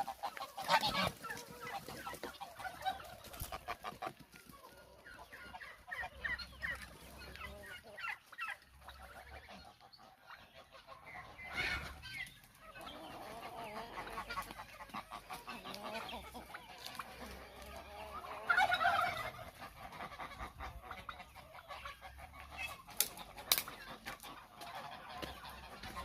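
Farmyard poultry calling, mostly hens clucking, with a few louder calls standing out, the longest lasting about a second, two-thirds of the way in.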